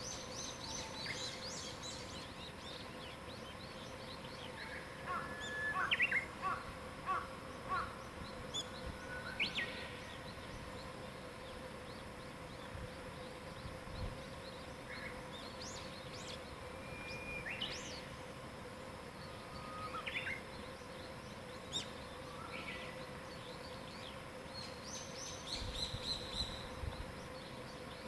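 Wild birds singing and calling: scattered chirps and short whistled notes, busiest a few seconds in and again near the end, over a faint steady hum.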